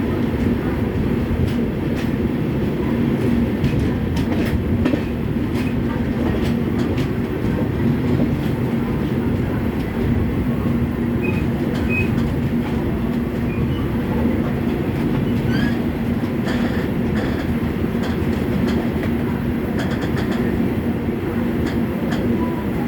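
Indian express passenger train moving along the track as it departs: a steady rumble of wheels on rail with a low hum and scattered clicks from the wheels over rail joints.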